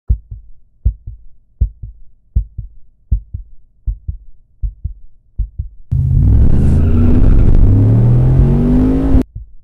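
Deep heartbeat-like double thumps, about one pair every three quarters of a second. About six seconds in, a loud engine cuts in, accelerating hard: its pitch climbs, drops once at a gear change and climbs again, then cuts off suddenly about three seconds later.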